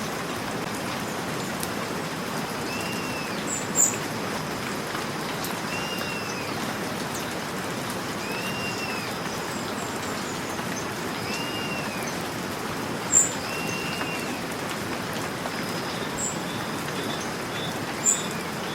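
Steady rainfall, with a bird repeating a short arched call about every three seconds. Three sharp ticks stand out above the rain, about four seconds in, about thirteen seconds in and near the end.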